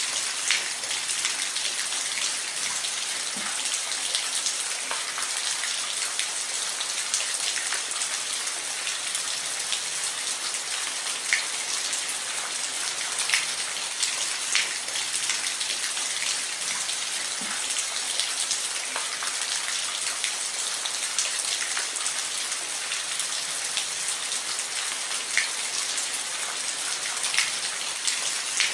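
Steady rain falling on a roof: a dense even hiss with individual drops ticking sharply here and there.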